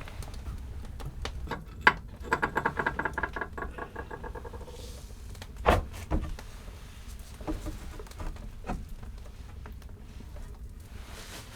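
Scattered knocks and clicks of things being handled, with a run of quick ringing metallic taps about two seconds in and a sharper knock near the middle.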